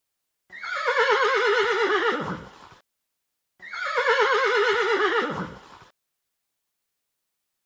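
A horse whinnying twice: two long, quavering neighs, each dropping in pitch at its end, with a short gap between them.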